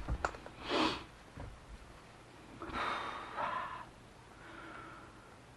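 A man's soft breaths while he pauses: a short exhalation about a second in and a longer one around three seconds in, with faint room tone between.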